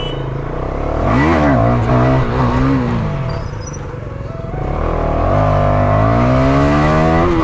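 KTM Duke 250's single-cylinder engine: a quick rev about a second in, then the bike pulling away, the engine note climbing steadily through the last few seconds and dropping sharply near the end as it shifts up a gear.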